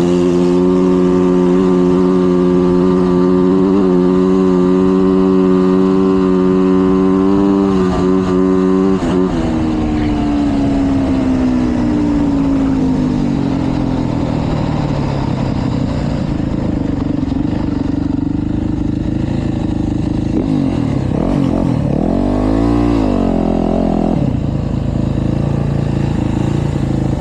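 Yamaha YZ450F single-cylinder four-stroke dirt bike engine held at steady high revs, then about nine seconds in the throttle closes and the pitch falls away as the bike slows. It settles to lower, steady revs, with a brief wavering rise and fall in pitch a few seconds before the end.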